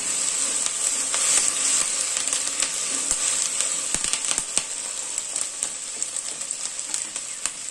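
Sliced okra sizzling steadily as it is stir-fried in oil in a kadai, with a few sharp knocks of the spatula against the pan, most noticeable about four seconds in.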